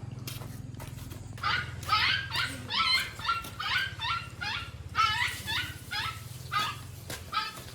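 A dog yipping and barking in a quick run of about a dozen short, high calls. A low steady hum underlies the first couple of seconds.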